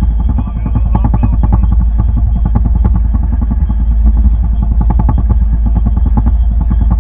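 Boat engine running steadily with a rapid, even pulse and a heavy low rumble.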